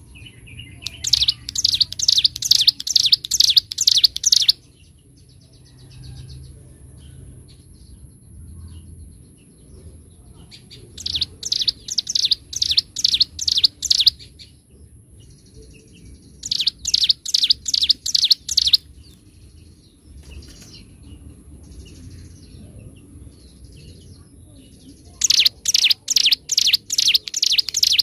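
Ciblek gunung (a prinia) singing in bouts of a few seconds each: rapid strings of loud, sharp high notes, about three or four a second, repeated four times, with faint scattered chirps in the pauses. A faint steady high whine runs underneath.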